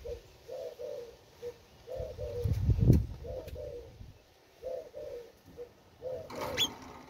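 A bird cooing in short low phrases that repeat every second or so. A loud low thump comes about three seconds in, and a brief rustle near the end.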